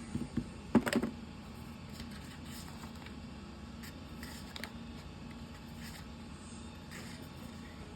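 Room tone with a steady low hum. A short cluster of knocks comes about a second in, then faint scattered clicks.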